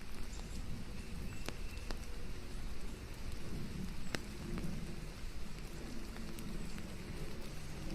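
Steady rain falling on leaves, a continuous hiss with a low rumble and scattered sharp drop ticks.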